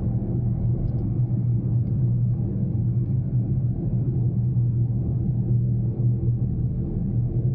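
Daihatsu Mira Cocoa's small three-cylinder engine and tyre noise heard from inside the cabin while driving: a steady, even low hum.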